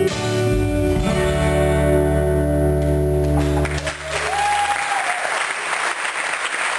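A rock band's final chord ringing out on guitars and bass, held steady and then stopping, with audience applause starting about four seconds in.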